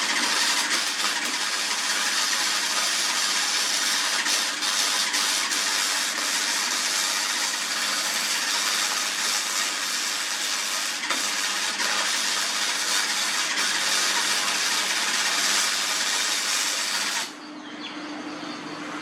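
Electric arc welding on steel: a steady, continuous crackling hiss from the arc that stops abruptly near the end as the weld bead is finished.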